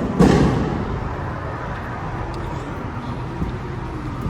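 Car meet din: vehicle engines running under a steady wash of background noise and distant voices, with one sudden loud thump just after the start.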